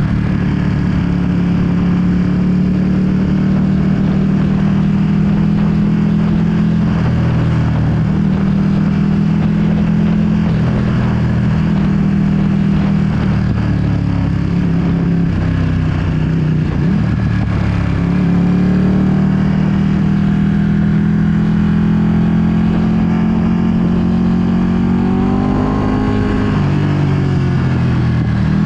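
Ducati Panigale V2's 955 cc L-twin engine through a full Akrapovic exhaust, running at a steady cruise with a rush of wind over the microphone. The engine pitch dips briefly around the middle, and near the end it rises and falls through revs.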